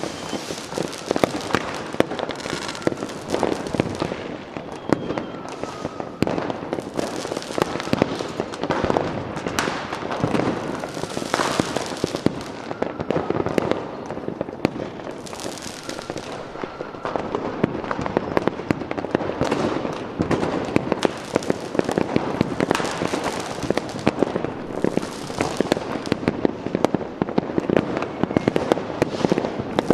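A continuous fireworks display: many bangs and crackling bursts overlapping without a break, with a few faint whistling rockets rising among them.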